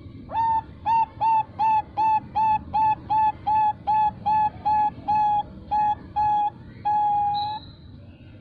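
Female zebra dove (Bangkok perkutut) calling: a fast run of about seventeen short, clipped coos, roughly three a second, closing with one longer drawn-out note, the 'long ending' prized in this bird.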